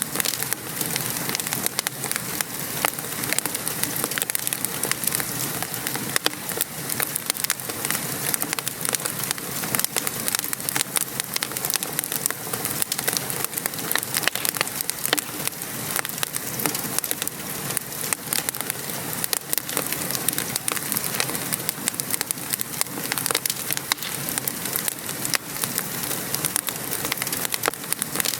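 Steady patter of rain mixed with a wood fire crackling, with many small sharp pops scattered throughout.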